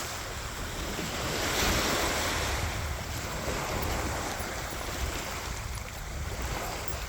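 Waves washing onto a beach, with wind on the microphone; the wash swells briefly about two seconds in.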